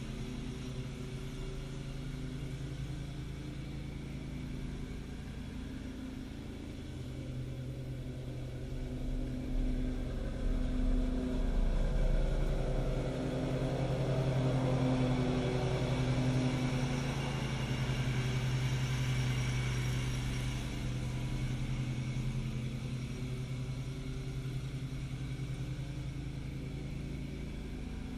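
A road vehicle running, with a steady engine hum and road noise; it gets louder about ten seconds in and eases off again after about twenty seconds.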